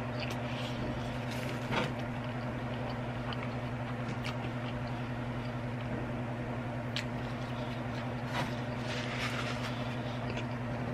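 Chewing and faint mouth clicks from someone eating a cheeseburger and fries, over a steady low hum.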